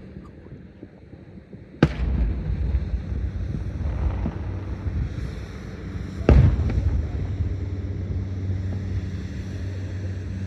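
Aerial firework shells bursting: two loud sharp bangs about four and a half seconds apart, each leaving a rolling low rumble.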